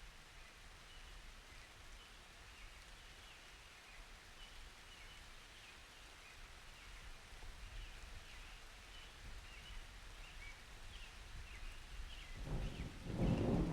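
Faint, steady rain hiss with scattered faint high squeaks. Near the end a deep rumble of thunder begins and builds.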